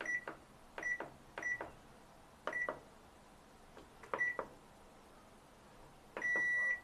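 Washing machine control panel beeping as its buttons are pressed: five short high beeps, each with a click of the button, then one longer beep near the end.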